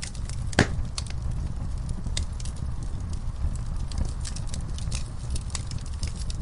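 Wood fire crackling with irregular sharp pops, one louder pop about half a second in, over a steady low rumble of burning.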